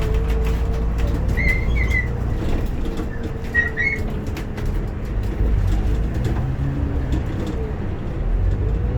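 A bus running, heard from inside: a steady low engine and road rumble with rattles, and a brief high chirp twice near the start.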